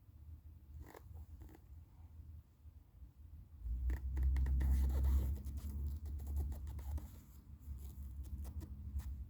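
Scratching and rustling with scattered clicks over a low rumble. The rumble swells louder from about four seconds in and eases off after about seven seconds.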